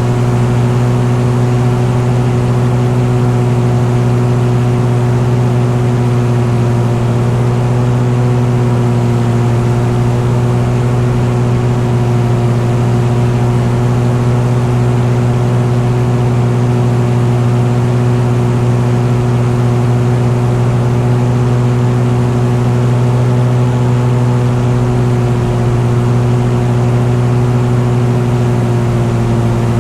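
An engine running at a constant speed, a steady drone with a strong low hum and several held tones above it that do not change.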